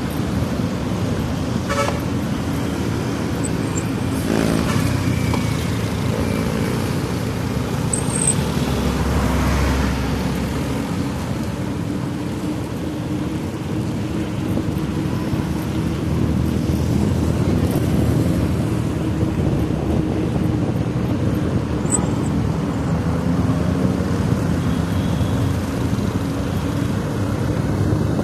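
Steady road traffic noise, with cars and motorcycles running past.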